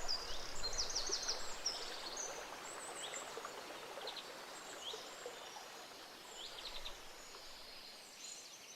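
A gentle stream babbling steadily while small songbirds chirp and trill over it, the whole fading out slowly.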